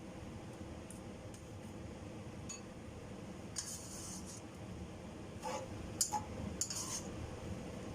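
Kitchen utensils clinking lightly a few times, with two short scraping sounds in the middle and near the end, over a steady low hum and hiss.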